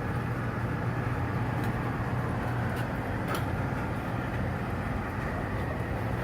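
A furnace and its whole-house bypass humidifier running: a steady low hum with a rushing noise over it and a few faint ticks.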